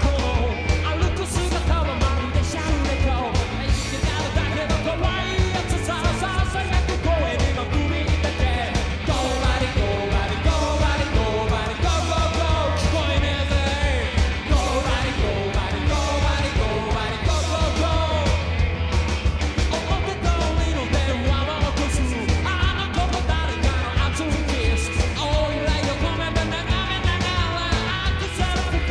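Rockabilly band playing a fast rock and roll number, with driving bass, drums and guitar under shouted, yelled vocals.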